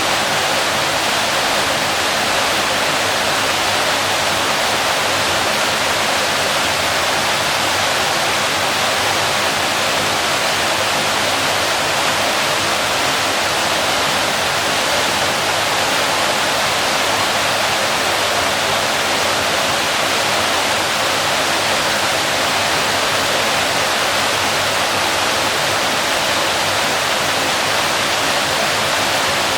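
A waterfall pouring steadily: an even, unbroken rush of water noise, mostly high and hissy with little deep rumble.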